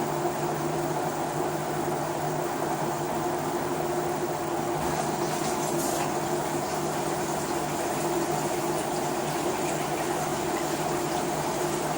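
LG WT-R852 direct-drive washing machine running through a bedding wash: a steady low hum over an even rushing, watery noise.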